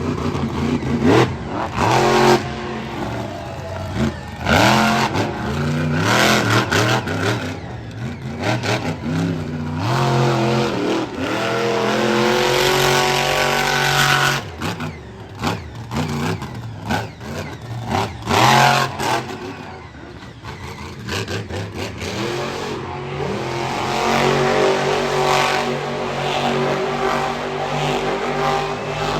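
Monster truck engine revving hard, the pitch climbing and dropping again and again under throttle, with several sharp bangs, the loudest near the start and about two-thirds of the way in.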